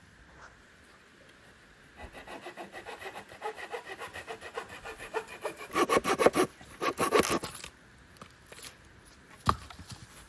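Hand saw cutting wood in quick, even strokes starting about two seconds in. The strokes grow louder in two harder runs past the middle, then stop, and a single knock comes near the end.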